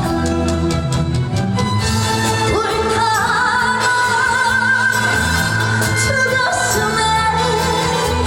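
Korean trot song performed live: a woman singing over a band backing track, holding one long note with vibrato through the middle.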